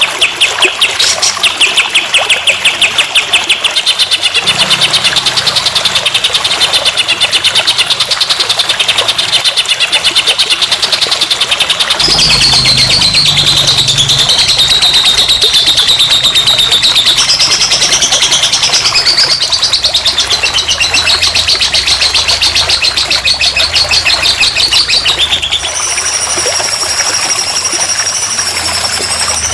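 Recorded songbird calls played as master song for training a young magpie-robin: fast, rapidly repeated chirping trills, switching abruptly to a different song about twelve seconds in and again near the end, over a steady hiss of running water.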